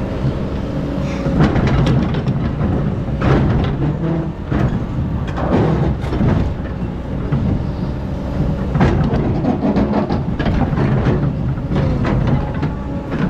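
Excavator's diesel engine running steadily under load, with repeated noisy rushes and scrapes about every two seconds as the bucket digs into and dumps sand.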